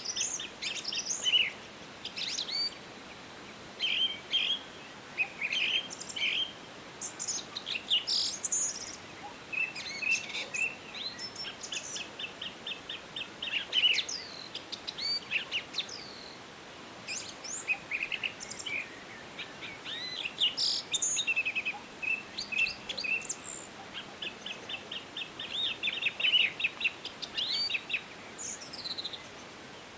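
Forest songbirds singing: phrases of rapid, evenly repeated trilled notes mixed with quick down-slurred whistles, one after another, over a faint steady hiss.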